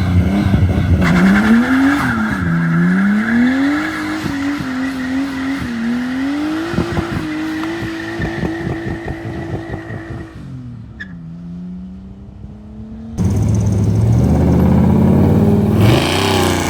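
Car engine revving hard, its pitch climbing and dropping again and again, with the tyres squealing as they spin in a burnout. About 13 seconds in, the sound jumps abruptly back to a loud revving engine.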